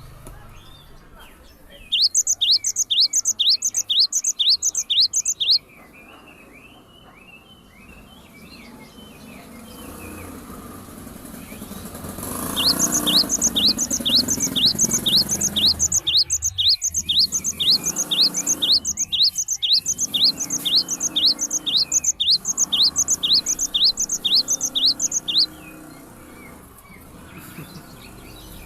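A bird singing in loud, fast-repeated rising whistled chirps, a little over two a second, in two bouts: a short one about two seconds in and a longer one from about halfway through to near the end.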